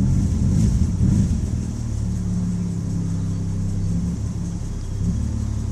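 BMW E46 330i's inline-six engine running with a misfire: given some throttle, it runs up unevenly for about the first second and a half, then settles to a steady idle. The owner traces the misfire to moisture on the ignition coils and worn-out spark plugs.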